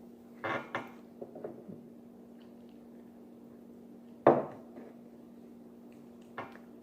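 Scattered knocks and clicks of tableware being handled, the loudest a single sharp knock about four seconds in, over a steady low hum.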